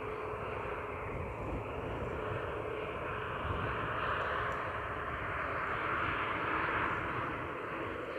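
Airliner engine noise swelling as an aircraft passes, loudest about halfway through and easing slightly near the end, over a low uneven rumble of wind on the microphone.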